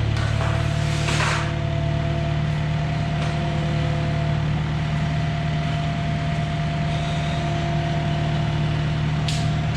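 Engine of an old lifting machine idling steadily, with a couple of brief hissy noises about a second in and near the end.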